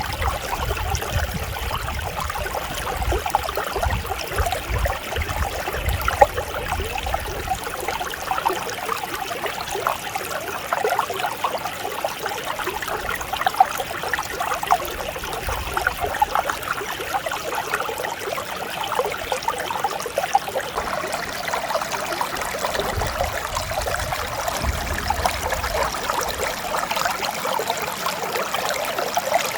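Mountain stream flowing and trickling over rocks in a steady, gentle babble, with intermittent low rumble.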